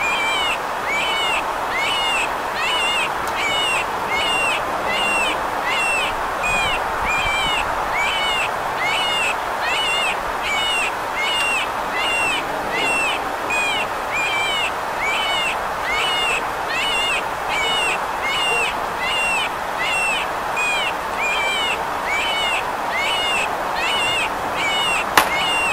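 A small animal's high squeaky chirp, repeated evenly about one and a half times a second over a steady hiss.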